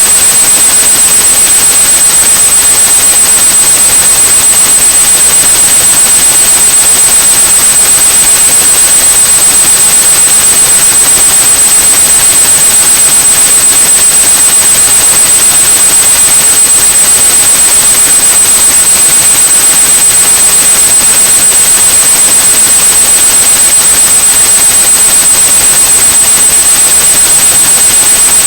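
White noise with a steady high-pitched 8100 Hz pure tone over it, unchanging: a tinnitus-masking sound.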